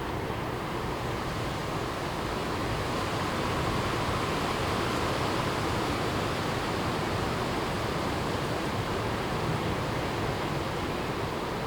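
Strong wind blowing through forest trees as a steady rushing noise, swelling a little louder in the middle before easing back.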